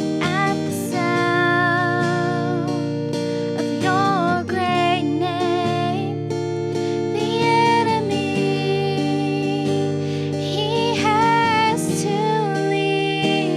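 Praise band playing a slow worship song: guitar chords held under a voice singing the melody.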